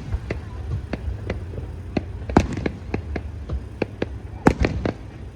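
Aerial fireworks display: a rapid, irregular string of bangs and crackles, several a second, with two louder booms about halfway through and near the end.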